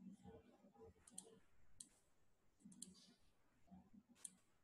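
A handful of faint computer mouse clicks, some doubled, spaced about a second apart against near silence, as the computer is set up to share the screen.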